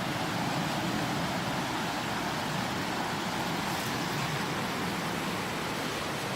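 Creek water flowing, a steady, even rushing with no let-up.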